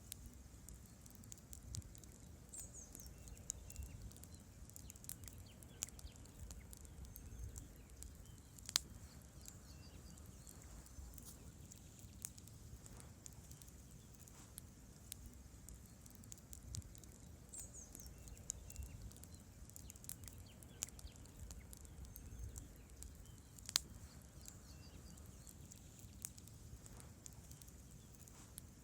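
Wood campfire crackling: scattered small pops and ticks over a low steady rumble of flames, with two sharper snaps about nine seconds in and near twenty-four seconds.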